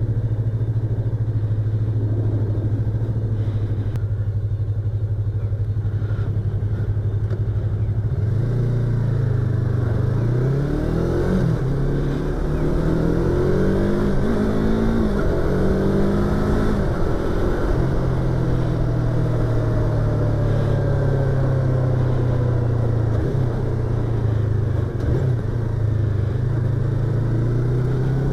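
Yamaha YZF-R25's 250 cc parallel-twin engine and exhaust, heard from inside the rider's helmet: it idles steadily for the first several seconds, then revs rise and drop in several steps as the bike pulls away and shifts up through the gears, settling into a steady cruise in the second half.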